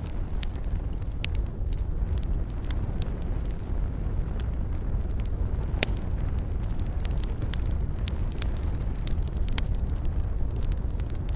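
Wood fire burning in a fireplace: a steady low rumble with frequent, irregular sharp crackles and pops, one louder pop about six seconds in.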